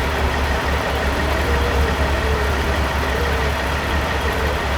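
Peterbilt semi truck's diesel engine idling with a steady low rumble.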